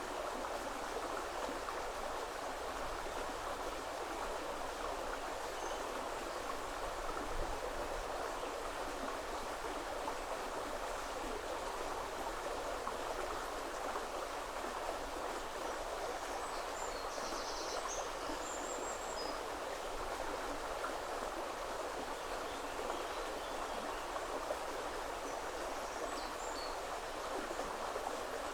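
River water flowing over stones, a steady rushing. A few faint, short, high bird chirps come about halfway through and again near the end.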